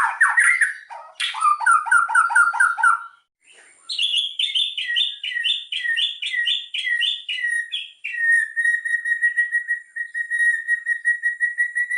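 White-rumped shama (murai batu) singing a lure song with mimicked fill-ins. A varied phrase runs into a run of repeated low notes, then after a short pause comes a series of about ten falling two-part whistles. From about two-thirds of the way in, a long, fast, even trill holds near one pitch.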